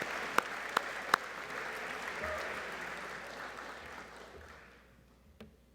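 An audience applauding, with three sharp, louder cracks in the first second or so. The clapping dies away about four to five seconds in.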